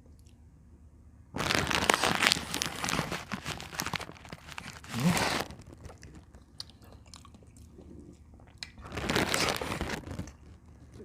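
Close-miked eating noises: loud, crackly chewing and biting about a second in that lasts some three seconds, a short burst just after, and a second stretch of under two seconds near the end.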